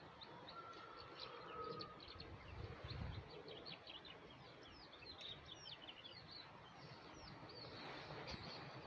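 Faint songbird chirping: many quick, high chirps throughout, over a low background rumble.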